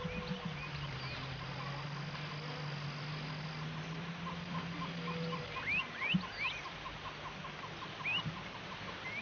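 Outdoor wildlife sounds: birds give short rising chirps, with a fast, regular ticking call in the background. Under them runs a steady low hum that stops about five and a half seconds in.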